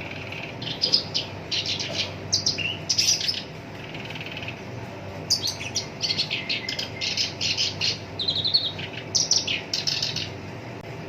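Black-browed reed warbler singing in rapid, harsh, chattering phrases, in two bouts with a short pause about four seconds in.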